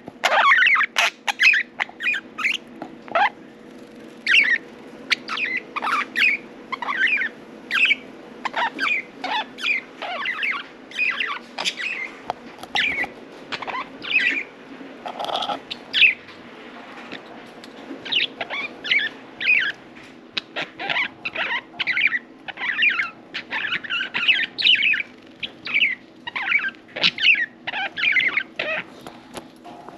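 Budgerigars chirping and chattering, with short, rapid chirps several times a second throughout, over a faint steady hum.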